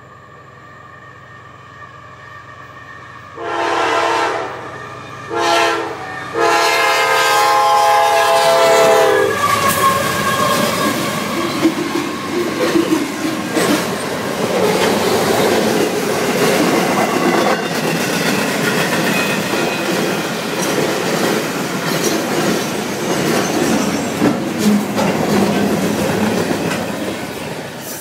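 Locomotive horn sounding a long, a short and a long blast, the grade-crossing warning, then the train passing close by: a loud, steady rumble with wheels clacking over the rails, easing off near the end.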